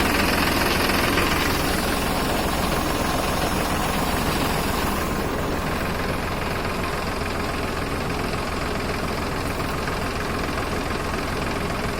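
Tractor engine running steadily at idle, driving a sprayer pump. A hiss above the engine eases off about five seconds in.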